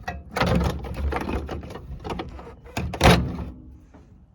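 Rattling and knocking from handling, with one sharp thunk about three seconds in, then quieter.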